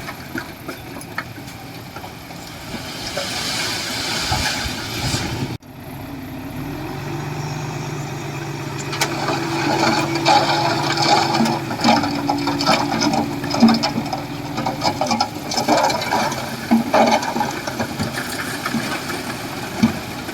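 Heavy diesel earthmoving machinery running at a steady engine note, with repeated clanks and knocks of metal and rock. The sound cuts off abruptly about five and a half seconds in and picks up again.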